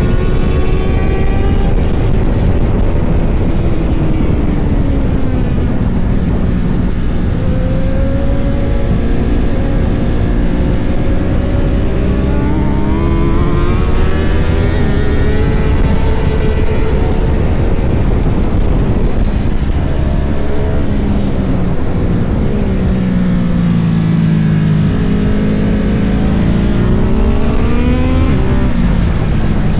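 Motorcycle engine under hard riding. Its pitch climbs and drops several times as it accelerates and backs off, over a steady low rush of noise.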